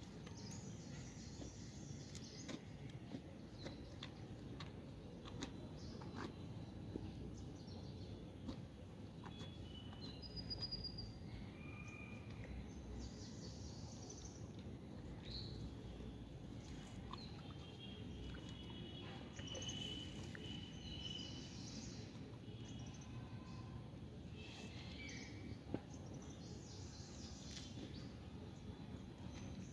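Steady low background noise with small birds chirping and calling now and then.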